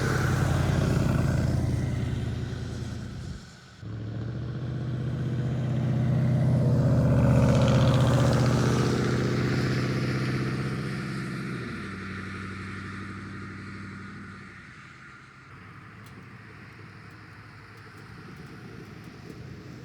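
Chevy Silverado 5.3 V8 running through straight-piped true dual exhausts with no mufflers or resonators, loud at first. After a brief break a few seconds in, it grows louder, peaks, then fades away as the truck passes.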